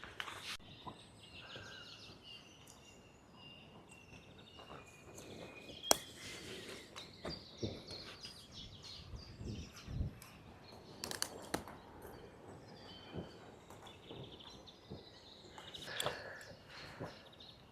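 Quiet outdoor ambience with small birds chirping faintly throughout, broken by scattered clicks and soft knocks, including one sharp click about six seconds in.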